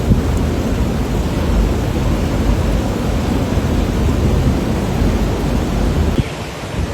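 Typhoon gale and heavy rain, the wind buffeting the microphone in a loud, steady low rumble under the hiss of rain; it drops suddenly to a quieter wind near the end.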